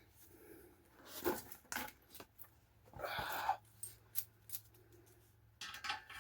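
Metal tools and parts clinking and being handled, with a short scraping rustle in the middle. Near the end a hand ratchet starts clicking quickly as the Loctited bolt is run in.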